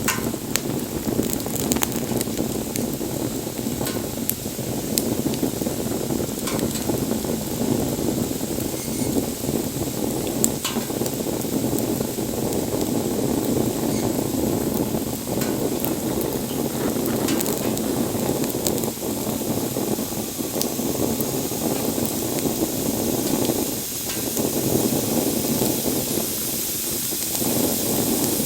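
Wood campfire burning: a steady rushing of flames with scattered sharp crackles and pops from the burning wood.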